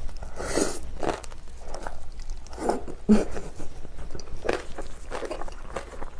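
Close-up chewing of a large mouthful of kimchi: irregular crisp crunches of the cabbage between wet chewing sounds.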